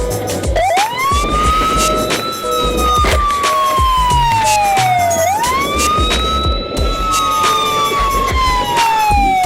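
Electronic siren on a slow wail: the tone climbs quickly about half a second in, then sinks slowly over some four seconds. It climbs again about five seconds in and sinks toward the end.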